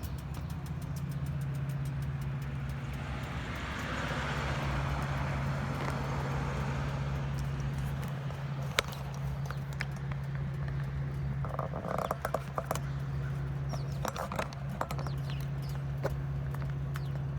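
2007 Harley-Davidson Softail Custom's fuel-injected 96 cubic inch Twin Cam V-twin idling steadily while warming up after a cold start. A few sharp clicks come in the second half.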